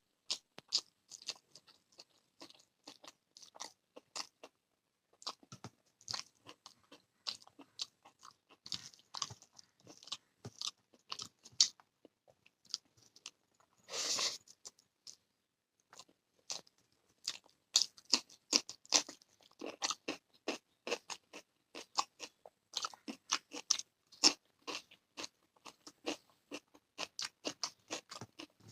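Close-up chewing and crunching of food in the mouth: a steady run of short, crisp crunches. There is a brief pause about halfway through, broken by one longer, noisier burst.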